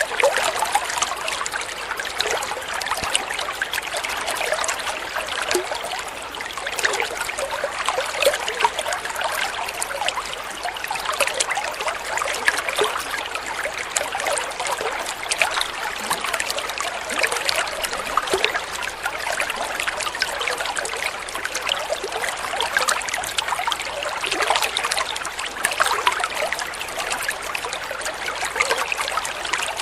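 Water trickling and babbling steadily over a shallow stream bed.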